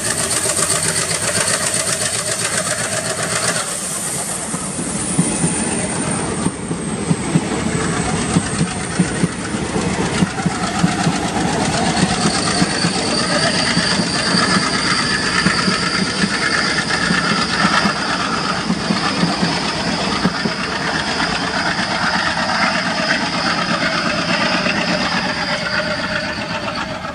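Passenger train coaches rolling past, wheels clacking sharply over the rail joints for several seconds, then a steady high wheel squeal for the rest of the run.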